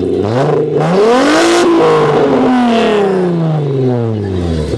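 Engine of a 1996 Volkswagen with a straight-piped axle-back exhaust revved once: the note climbs for about a second and a half, then falls slowly back toward idle.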